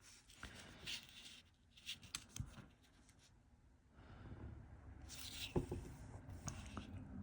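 Faint scratching of a drawing tool on paper, in short scattered strokes at first and then more steadily from about halfway through.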